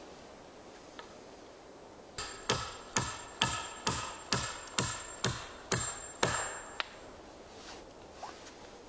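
Hammer blows with a metallic ring: about ten evenly spaced strikes, roughly two a second, stopping about seven seconds in.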